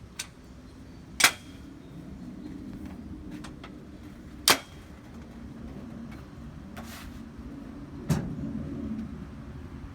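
Sharp knocks and clanks of a wheeled miter saw stand being handled and loaded into a truck, over a low rumble. The loudest knocks come about a second in and again about four and a half seconds in, with weaker ones later.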